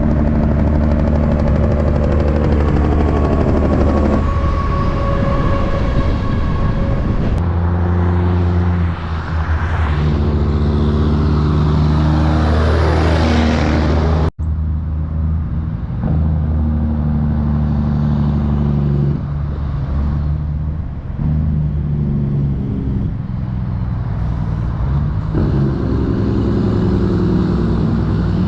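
Diesel semi-truck engines running as trucks pass close by. The pitch falls as one goes past about halfway through, then the sound breaks off abruptly into another truck's steady engine sound.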